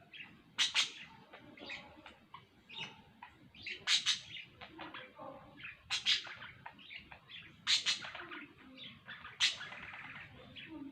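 Pet budgerigars chirping and chattering, with several sharp, loud chirps a couple of seconds apart over softer warbling chatter.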